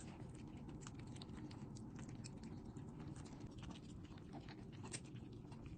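Dog eating: a faint, fast, irregular run of small crunching clicks as it chews its food.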